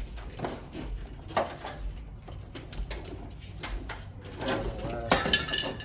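Light clicks, knocks and rustling of hands handling parts and wiring, over a low steady hum. A short pitched sound comes in near the end.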